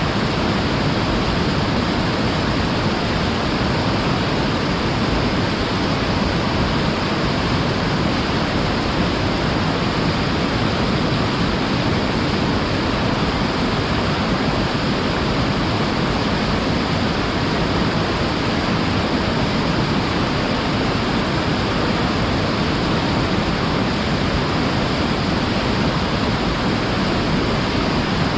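Waterfall on a mountain river roaring steadily: an even, unbroken rush of falling water, deep and full, with no other sound standing out.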